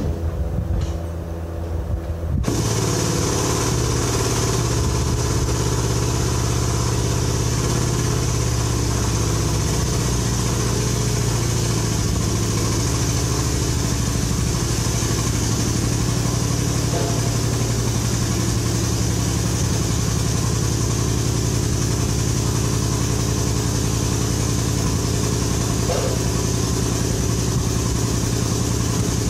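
An engine running steadily. About two seconds in, a louder, steady machine noise with a strong hiss joins it and keeps on unchanged.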